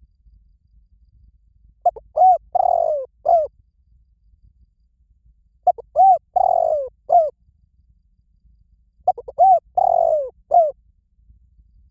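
Spotted dove cooing: three phrases, each a couple of short rising-and-falling coos, a longer drawn-out note and a short final coo, repeated about every three and a half seconds. This is the call used as a decoy to draw spotted doves in.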